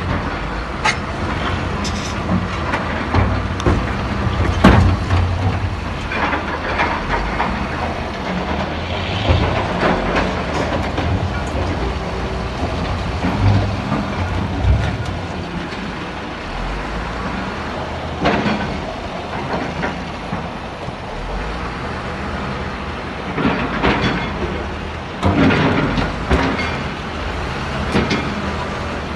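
Heavy diesel machinery running with a steady low drone, broken by scattered clanks and knocks of metal and rock, the loudest about five seconds in and a cluster near the end.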